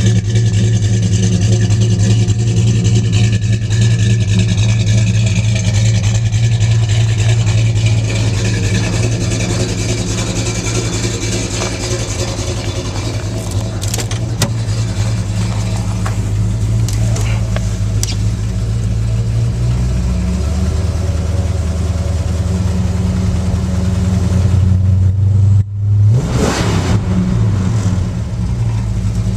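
1966 Chrysler New Yorker's 440 cubic-inch V8 running through 2.5-inch dual exhaust with an X-pipe and Flowmaster Super 44 mufflers. It is loud and steady, and the note settles a little lower about two-thirds of the way through. Near the end there is one quick throttle blip, the pitch rising sharply and falling back.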